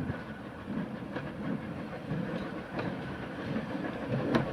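Steam train on the move, with a regular low beat about twice a second and sharp clicks of the wheels over the rail joints, the loudest click near the end.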